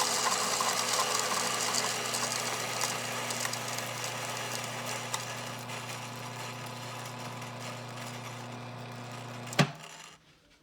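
Mazzer Robur commercial coffee grinder running with a steady motor hum while beans crackle through the burrs. The grinding noise is loudest at first and thins out as the beans run through. The motor is switched off with a click near the end.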